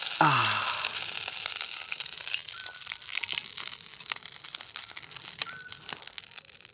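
Hamburger sizzling and crackling in a hot pan just taken off the fire, the sizzle fading away steadily. A short falling voice sound comes at the very start.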